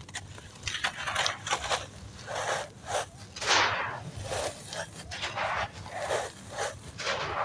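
Dry blue-dyed sand clumps crunching and crumbling into a clay pot: a run of short, crisp crumbles about one or two a second, the loudest about three and a half seconds in.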